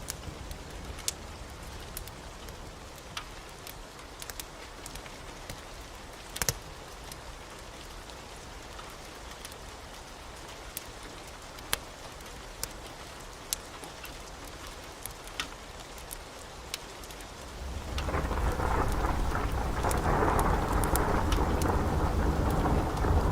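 Steady rain with scattered sharp crackles of a wood fire, then a roll of thunder that builds about three-quarters of the way through and keeps rumbling.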